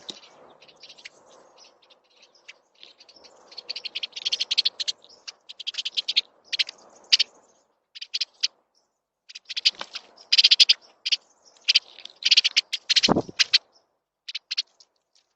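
Small songbirds chirping in quick clusters of short high notes. Near the end there is a single low thump.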